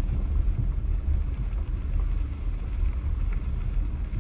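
Car driving slowly with a steady low road and engine rumble, heard from inside the cabin, with a few faint ticks.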